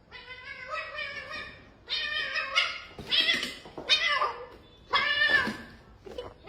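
Domestic cat meowing repeatedly: about five drawn-out calls, each under a second long, with short pauses between them.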